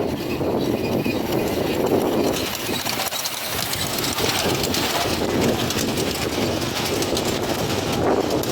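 Miniature railway train running on the track, with a steady clatter and many small clicks from the wheels on the rails.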